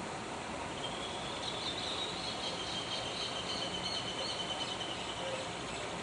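A bird's high, thin trilling call lasting about four seconds, over a steady background hiss.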